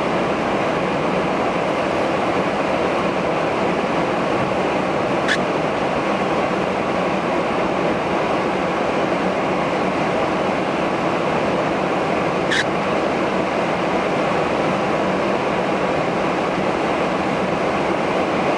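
Storm surf pounding in with wind, a loud steady rush without a break. Two brief high sounds cut through it, about five and twelve seconds in.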